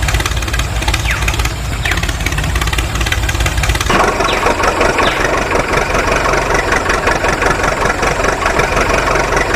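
Tractor-type engine idling with an even low chug; about four seconds in it turns harsher and fuller, as if revved up.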